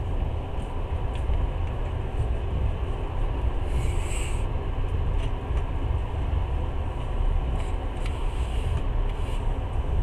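Passenger train running on the rails, heard from inside the carriage: a steady low rumble with a few faint clicks, and a brief hiss about four seconds in.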